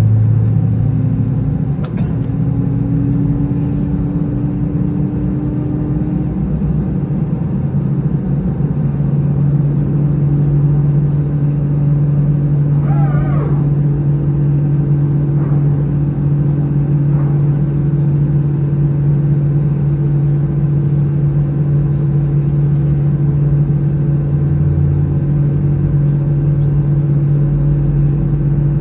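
Airbus A320 cabin noise: the CFM56 engines' steady drone and rumble. Its low tones rise in pitch over the first several seconds, as thrust comes up, then hold steady.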